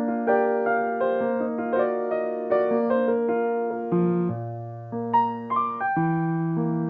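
Solo piano playing a slow, gentle melody over chords, with notes struck and left to ring; a low bass note comes in about four seconds in.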